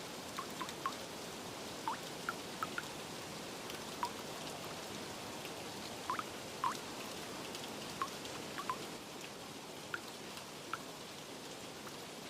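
Steady rain hissing, with single water drops plinking irregularly over it, about one or two a second.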